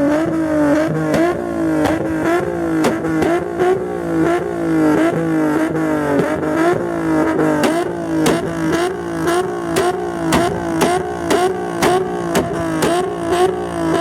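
Car engine held at high revs. Its pitch dips with a sharp crack about twice a second, a rhythmic pattern like an engine bouncing off a rev limiter.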